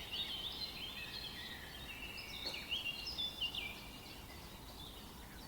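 Small birds chirping and twittering in many short, quick calls. The calls are busiest in the first three and a half seconds, then thin out.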